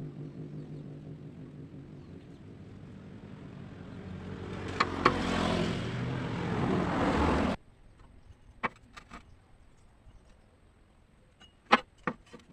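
An engine running, growing louder over a few seconds and then cut off abruptly; a few sharp clicks follow near the end.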